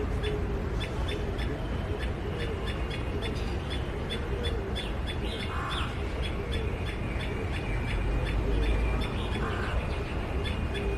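A bird calling with short high chirps repeated at a steady pace, about three a second, over a constant low rumble.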